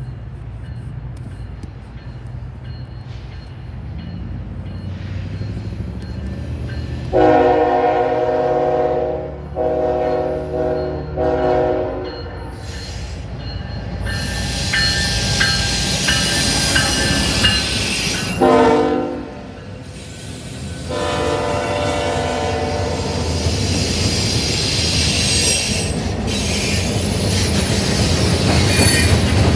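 Freight locomotive air horn sounding three blasts in quick succession about seven seconds in, and a fourth about six seconds later, as the train approaches. The rumble and wheel noise of the train grow louder as it passes.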